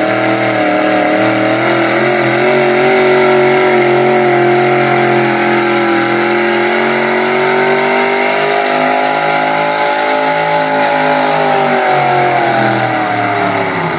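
Super stock 4x4 pulling truck's engine running at high revs under load. It climbs in pitch at the start, holds high with slight wavering for most of the run, then drops away near the end as the driver lets off.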